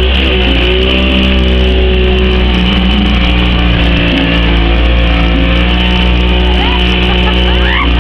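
Outboard motor of a small open boat running loud and steady under way.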